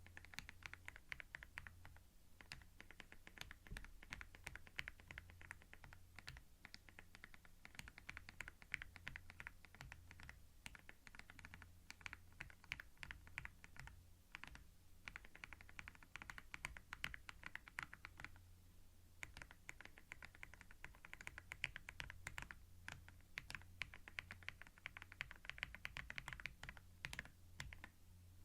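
Typing on a computer keyboard, recorded binaurally at close range: fast runs of key clicks broken every few seconds by brief pauses, over a low steady hum.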